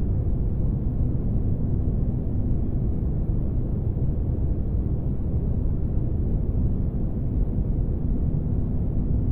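Spaceship ambience noise: a steady deep rumble with a faint unchanging hum in it, deep and dull with almost no hiss.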